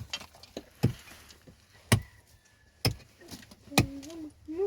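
Sharp knocks, one about every second, like blows struck in a steady rhythm, with a short voice sound near the end.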